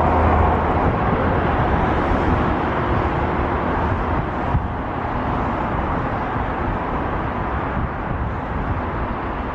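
Jet airliner engines, a loud steady rushing roar that slowly fades as the aircraft moves away.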